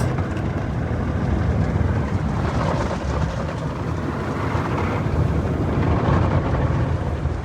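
Tunnel car wash rocker brushes spinning against the lower sides of the car, with water spray, heard from inside the car as a steady, even wash noise.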